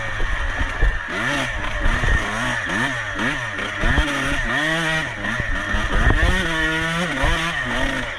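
Off-road motorcycle engine under racing throttle, its pitch climbing and dropping again and again as the throttle is opened and closed, with one longer held rev near the end. Short low knocks run underneath.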